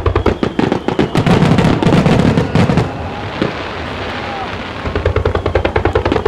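Aerial fireworks bursting in a rapid barrage of many reports a second, with crackling. The barrage eases for a moment in the middle, then builds again.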